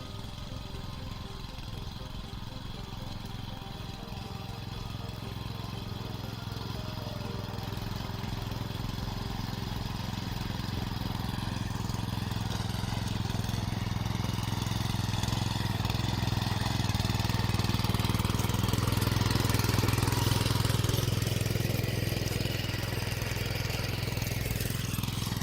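Bumyang VP-225B walk-behind cultivator's four-stroke gasoline engine running steadily, growing louder until about twenty seconds in, then easing slightly.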